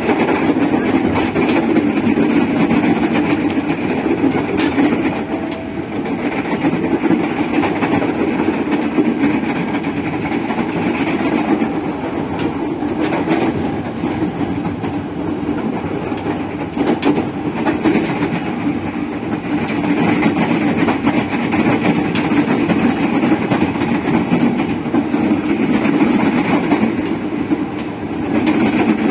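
Running noise inside a 205-series electric commuter train's motor car with Toyo VVVF traction equipment: a steady, loud rumble of traction motors and wheels on rail, with occasional clicks from rail joints.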